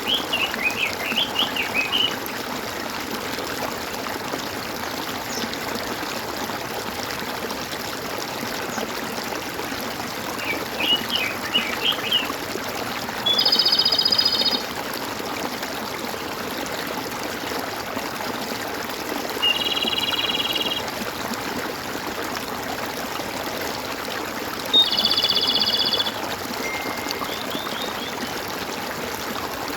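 A stream runs steadily with a constant water sound. Birds call over it: a quick twittering series of chirps right at the start and again about eleven seconds in, and three separate steady calls of about a second each spread through the middle and later part.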